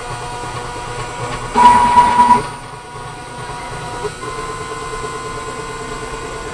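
WALTER 6545 CNC machine running while machining an acrylic plate: a steady motor whine made of several held tones, which shift in pitch about four seconds in, with a louder stretch of cutting from about one and a half to two and a half seconds in.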